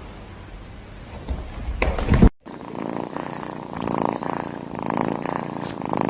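A cat purring, swelling and fading about once a second, after a sudden cut about two seconds in; before the cut there is a low rumble with a few knocks.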